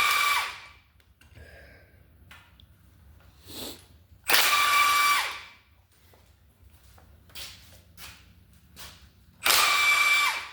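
A power tool runs in three short bursts of about a second each, with a steady whine that drops as it winds down after each run. It is loosening the engine's motor mount bolts.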